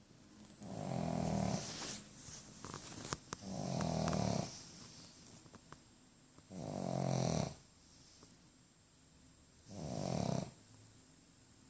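A pug snoring in its sleep: four snores, each about a second long, coming roughly every three seconds.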